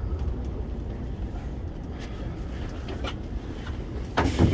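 Low rumble of a Keikyu 1500 series electric train, heard from inside the car as it runs slowly into a station, easing off through the clip. A sudden loud burst of noise comes near the end.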